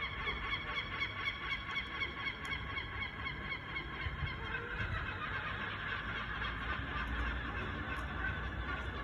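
Gulls calling: a fast run of repeated short, pitched calls that blurs into a denser, steadier mix of calls after about three seconds, over a low rumble.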